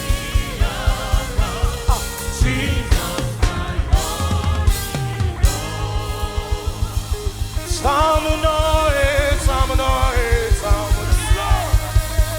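Live gospel praise music: a singer holding and bending long notes over a full band, with a driving drum beat and bass, and cymbal crashes a few seconds in.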